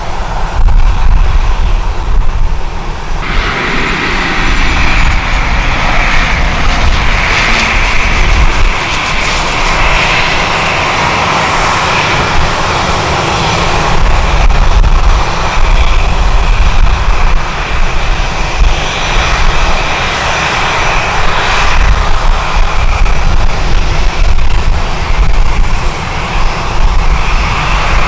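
Jet airliner's engines running loud and close, their noise swelling about three seconds in and holding, with strong wind buffeting the microphone.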